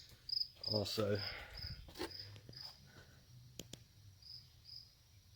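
A cricket chirping steadily in the background, about two short high chirps a second, with a couple of faint clicks in between.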